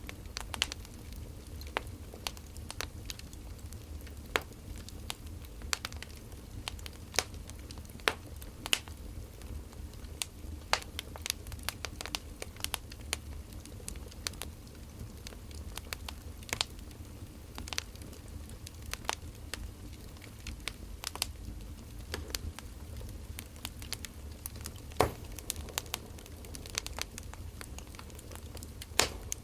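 Burning firewood crackling and popping: irregular sharp snaps, a few louder pops among them, over a steady low rumble.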